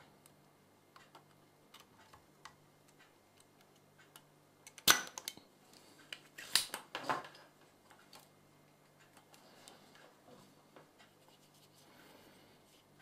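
Scattered light clicks and knocks of small hard objects, with one sharper click about five seconds in and a short cluster of clicks around six and a half to seven seconds, over a faint steady low hum.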